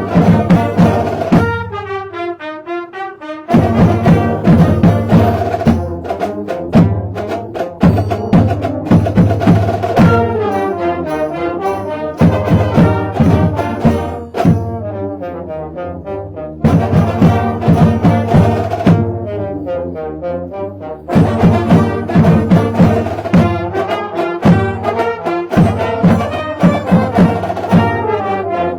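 High school band playing a Christmas carol: brass melody over a steady percussion beat, dropping back briefly a few times before the full band comes in again.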